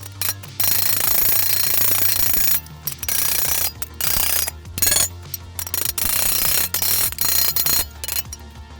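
A power tool working sheet-steel body panel in repeated short bursts of harsh, hissing noise, each lasting from half a second to two seconds and broken by brief pauses, over a steady low hum.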